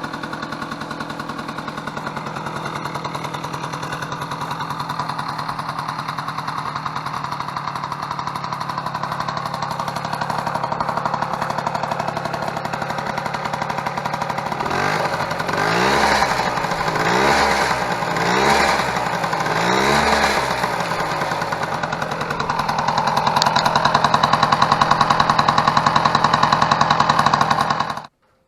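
Yamaha Passol's small two-stroke scooter engine running through a newly fitted expansion-chamber exhaust: idling steadily, then blipped four times in a row. After that it is held at a higher, steady speed.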